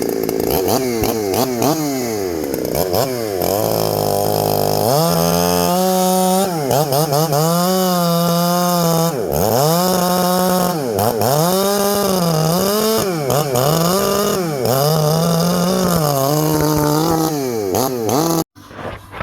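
Ported Jonsered 2171 chainsaw engine running loud, its speed surging up and down over and over instead of holding steady. The saw is struggling, and its owner sets out to cure this with a different ignition coil. The sound cuts off abruptly near the end.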